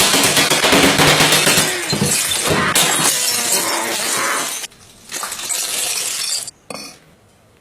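Breaking glass: a dense crunching clatter of many small sharp pieces that stops suddenly about four and a half seconds in, followed by a second, shorter burst.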